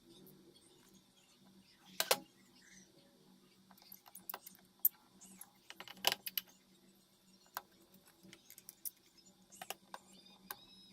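Scattered light clicks and taps of small tools and parts being handled during a phone repair, with two sharper clicks about two and six seconds in, over a faint steady hum.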